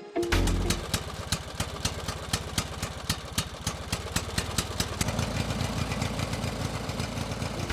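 Small motor-driven homemade machine running steadily, with a regular clicking of about four clicks a second.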